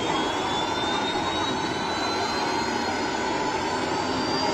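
Jet engine running, a steady rush of noise with a thin high whine that slowly rises in pitch.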